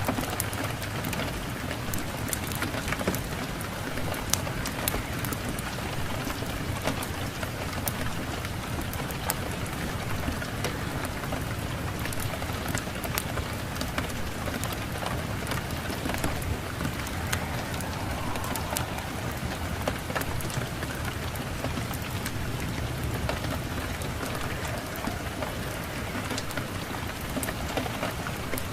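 Steady rain with a dense scatter of small sharp ticks and pops, mixed with a crackling wood fire.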